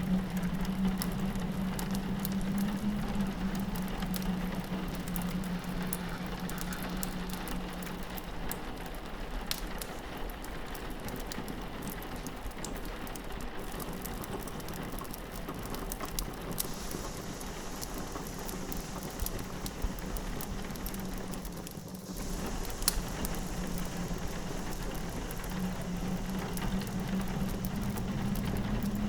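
Rain pattering against a window, mixed with the scattered pops and crackles of a fireplace. A low steady wind drone fades away through the middle and returns near the end.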